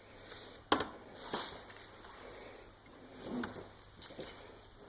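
Wire suet cage being closed by hand: a sharp metal click about a second in, then soft handling rustles and a few faint clinks.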